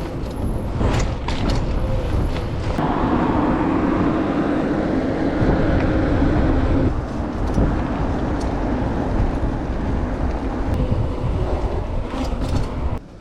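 Wind buffeting an action-camera microphone during a bicycle ride, with road noise underneath. A louder hum swells from about three to seven seconds in, and the sound cuts off sharply just before the end.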